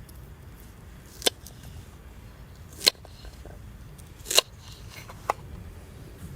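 Four sharp clicks or knocks, irregularly spaced about a second or so apart, over a faint steady background.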